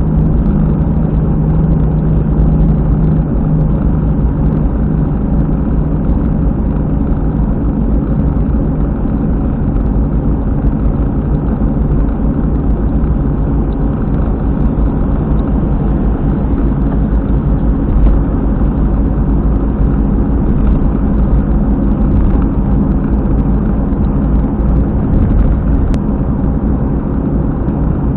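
A car's failing rear wheel hub bearing at expressway speed: a loud, steady low rumble with a fast bumping pulse, described as "boko-boko-boko". It is the sign of a destroyed hub bearing.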